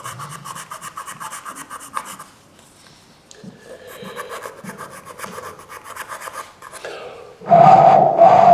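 Rapid rasping strokes of a file or rasp on the wooden body of a humming top, shaping its square sound opening. The strokes pause about two seconds in and then resume. A much louder steady humming sound starts near the end.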